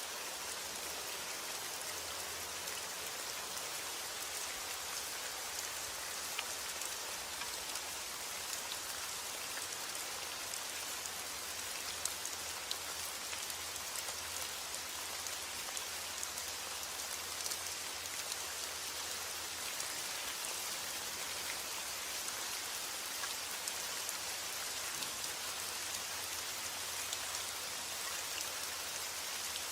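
Steady rain falling, a dense even hiss with many small drop patters.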